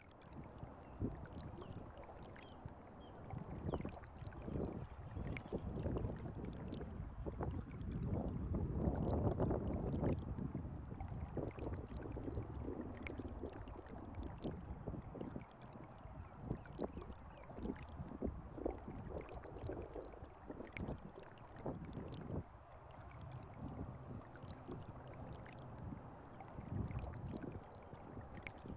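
Shallow water lapping and sloshing, with a low rumbling haze and many small scattered clicks and splashes, swelling loudest about a third of the way through.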